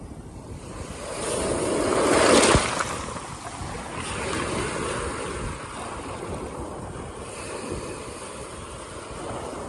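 Waves breaking on a rocky lakeshore. One wave builds and crashes about two and a half seconds in, then water washes back out over the rocks, with a smaller surge a couple of seconds later. Wind rumbles on the microphone.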